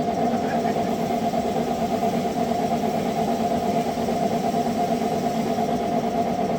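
Freshly restored boat engine running steadily at idle.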